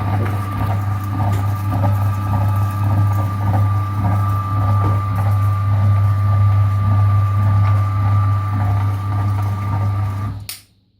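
Electric meat grinder with a geared motor running steadily, a deep hum under a high whine with an uneven rattle, then switched off and stopping abruptly near the end.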